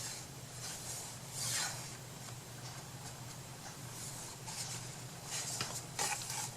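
Brief scratchy rubbing strokes of hands-on crafting work, a few scattered and a quick cluster near the end, over a steady low hum.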